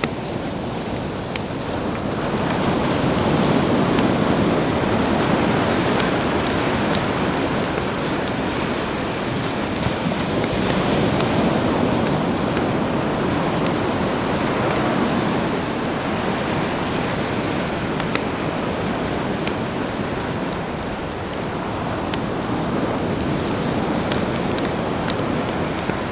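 Sea waves washing ashore, the surf swelling and easing every few seconds, with a campfire crackling in small sharp pops over it.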